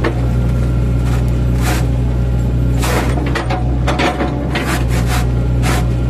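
Mini excavator engine running steadily, with irregular sharp cracking knocks of wood as it chips up an oil palm trunk.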